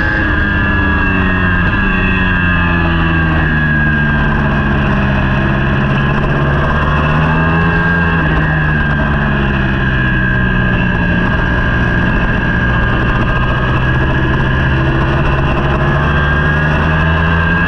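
Superbike engine at racing speed, its pitch rising and falling over and over as it accelerates, shifts and slows for corners.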